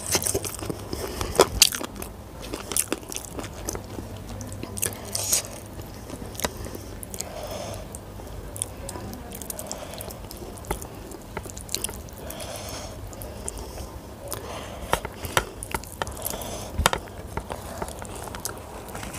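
Close-miked chewing of a mouthful of rice and curry, with many short, sharp wet clicks from the mouth scattered throughout.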